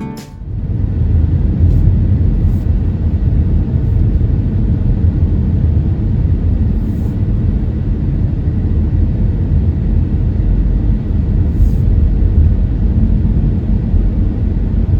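Loud, steady low rumble with no clear pitch, unbroken throughout.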